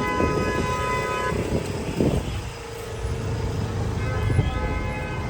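Vehicle horns honking in street traffic. A high, multi-tone horn is held and stops about a second in, a lower horn sounds steadily for a couple of seconds, and the high horn starts again near the end, over the rumble of traffic.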